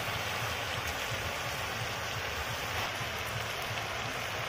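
Steady sizzle of vegetables and spices frying in a metal wok, with a few faint ticks.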